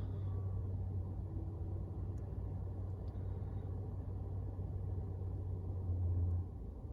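A vehicle engine idling: a steady low hum over a rumble that drops away about six and a half seconds in.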